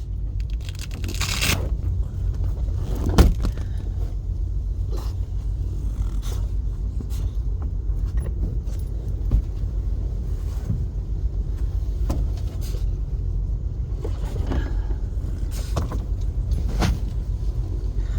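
Steady low vehicle rumble of a truck's running engine, with scattered light clicks and rattles and one sharper knock about three seconds in.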